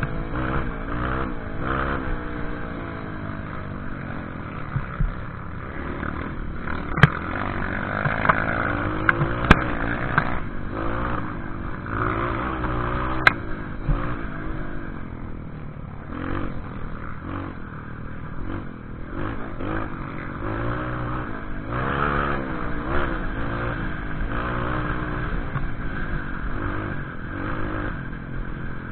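Motorcycle engine revving up and down over rough off-road trail ground, with rattling and a few sharp knocks about 7, 9 and 13 seconds in.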